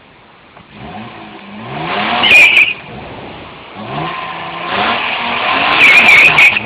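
A car engine revving hard twice, each time climbing in pitch to a peak and then dropping, with a high squeal at each peak.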